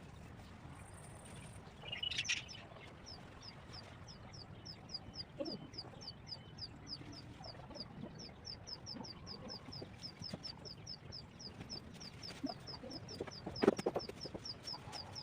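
Birds calling: a short high chirp repeated rapidly and evenly, about five times a second, over scattered lower calls. A brief louder call comes about two seconds in, and a sharp knock near the end.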